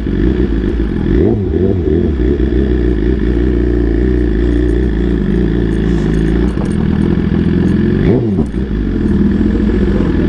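Motorcycle engine running at low revs, its pitch dipping and coming back up twice, about a second in and again near the end.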